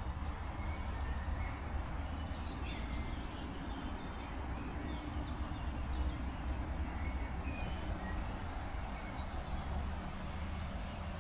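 Heavy rain falling steadily, with a low rumble of wind on the microphone.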